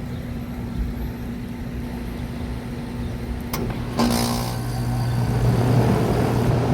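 A 2019 Goodman GSX14 3-ton central air conditioner starting up: a sharp click about three and a half seconds in, then half a second later a sudden surge as its scroll compressor and condenser fan kick on, settling into a steady low hum that builds louder.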